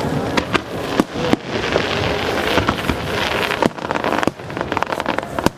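Aerial fireworks bursting overhead: a string of sharp bangs, with a dense spell of crackling in the middle.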